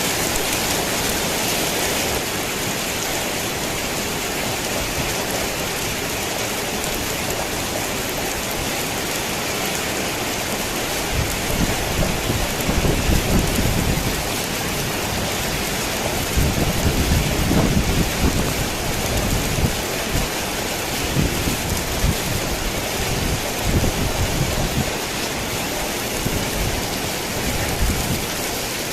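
Steady heavy rain drumming on a tin roof. From about eleven seconds in, rolling thunder rumbles low in repeated swells until near the end.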